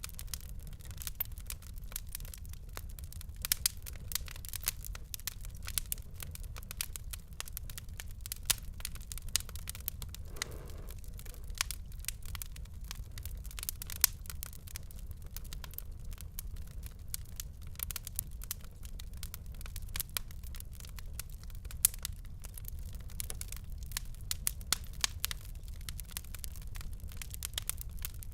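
Fireplace fire crackling: a constant, irregular stream of sharp snaps and pops, a few of them louder, over a low, steady rumble.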